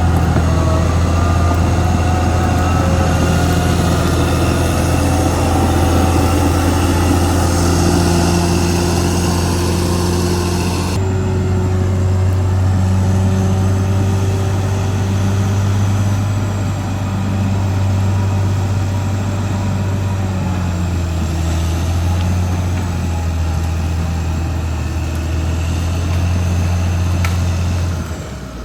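Caterpillar D6R XL bulldozer's diesel engine running steadily with a deep hum, its pitch shifting slightly as the load changes.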